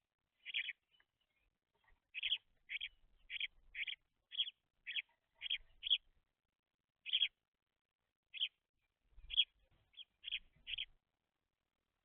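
Young house sparrows chirping: a string of about fifteen short, separate chirps at an uneven pace of roughly two a second, with a couple of brief pauses.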